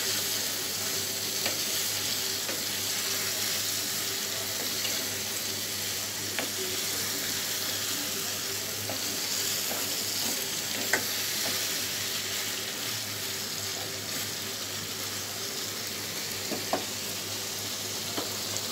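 Brinjal (eggplant) pieces sizzling as they fry in oil and spice paste while being stirred with a wooden spatula, with occasional light knocks of the spatula against the pan. This is the stage of frying the brinjal down in the masala.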